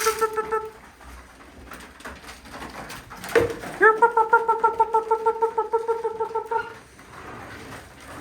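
A keeper's feeding call to racing pigeons: long, steady, horn-like trilling notes with a fast warble. One note ends under a second in, and another runs for about three seconds from around four seconds in, with a short knock just before it.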